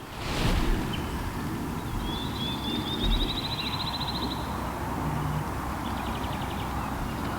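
Outdoor woodland ambience: wind rumbling on the microphone, with a bird's rapid high trill from about two seconds in to three and a half seconds and a shorter trill near the end. A brief louder call about half a second in.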